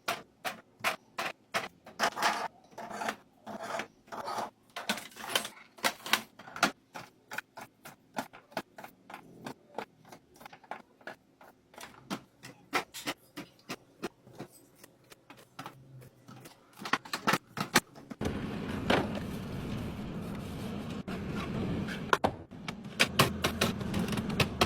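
Food containers and packages being set down and arranged in a refrigerator: a long run of quick clicks and knocks, several a second. About three quarters of the way through it gives way to a steadier rustling scrape with knocks on top.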